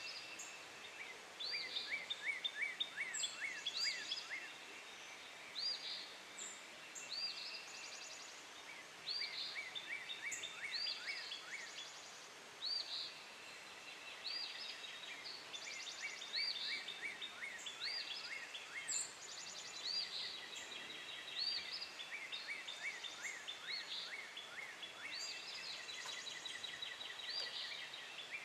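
Several wild birds singing and calling, overlapping: repeated short high arched notes and quick runs of falling chirps, over a steady faint background hiss.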